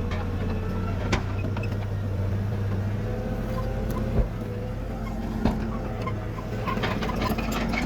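Bulldozer's diesel engine running steadily with a low drone, with a few sharp metallic knocks about one, four and five and a half seconds in, the one at four seconds the loudest.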